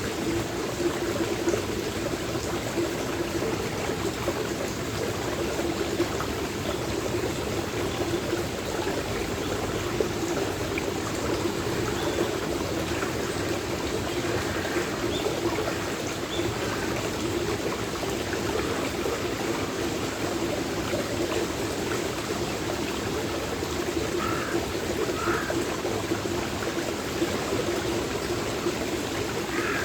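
Stream water flowing steadily, a continuous rushing babble.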